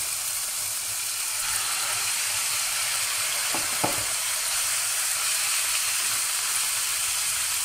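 Raw chicken strips sizzling in hot oil, caramelized sugar and garlic in a pan, stirred with a spatula. Two short knocks come close together about halfway through.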